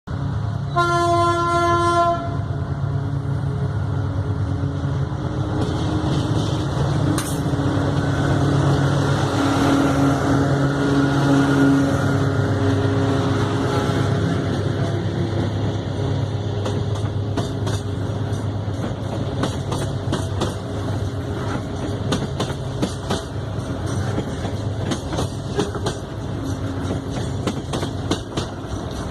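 Diesel locomotive hauling a loaded freight train: one short horn blast near the start, then the engine's steady low drone as it passes. From about halfway, the wagons' wheels click rhythmically over the rail joints.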